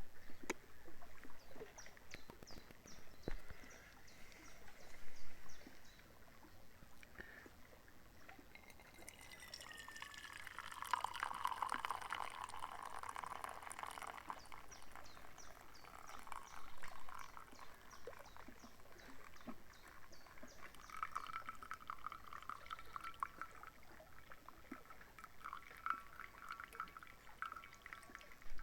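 Liquid being poured, splashing and trickling, with a ringing pitch that changes as the stream and the level in the vessel shift.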